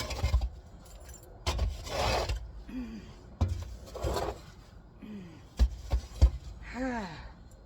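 Intermittent scraping and rustling with several sharp knocks, the loudest a little past the middle, and a few short falling squeaks: work clearing sawdust out of a pickup truck bed.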